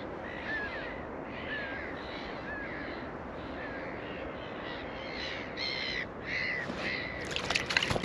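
A bird calling over and over in short, arched calls about twice a second, with a few louder, fuller calls about five to six and a half seconds in, over a steady background hiss. Scattered clicks start near the end.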